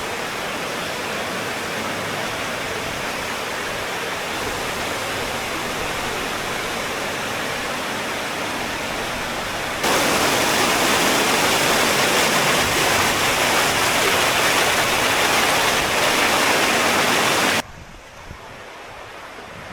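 Thornton Force waterfall, water falling and rushing as a steady, even noise. It jumps louder about halfway through and cuts off suddenly near the end.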